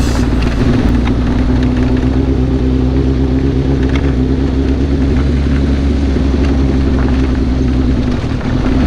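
Sportbike engine running at a steady pitch, with a brief dip in level near the end.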